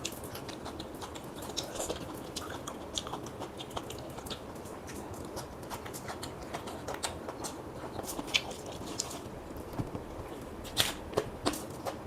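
A person eating close to the microphone: chewing, with scattered small clicks from the mouth and food, and a few louder clicks near the end.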